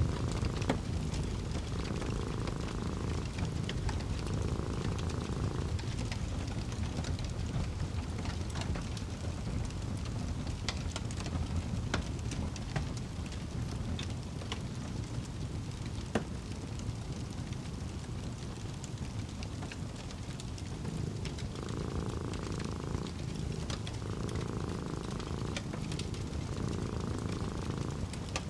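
Fireplace crackling steadily, with scattered sharp pops, over a low rumble. A cat purrs in slow rhythmic cycles, one every couple of seconds, at the start and again through the last several seconds.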